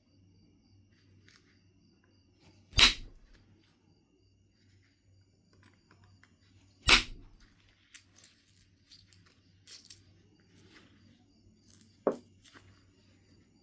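Flintknapping on Knife River Flint: two hard percussion strikes about four seconds apart, each a sharp crack, followed by a scatter of lighter stone ticks and clicks.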